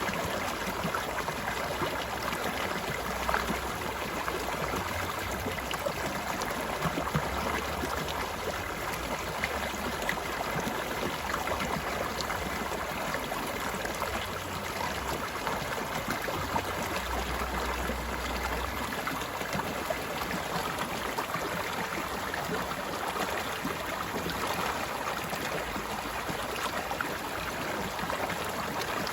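Stream water flowing steadily over rocks, a continuous babbling and splashing.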